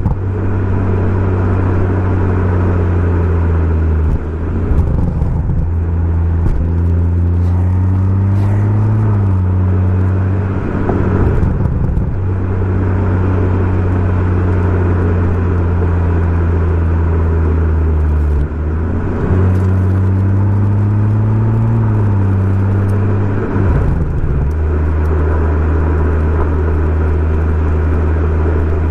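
BMW M140i's 3.0-litre turbocharged straight-six running through a Remus aftermarket exhaust under way, a steady low drone that twice climbs in pitch as the car accelerates, with short rough breaks where the note drops between.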